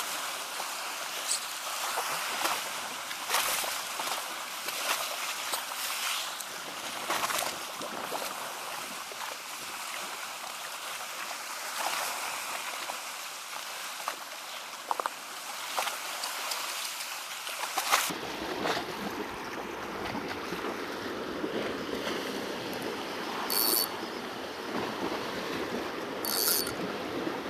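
Sea washing and splashing against shoreline rocks, with wind on the microphone and scattered sharp clicks. About two-thirds of the way through the sound changes suddenly to a deeper, fuller wash.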